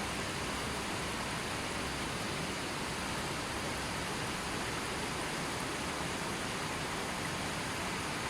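Gentle river flowing: a steady, even rush of water.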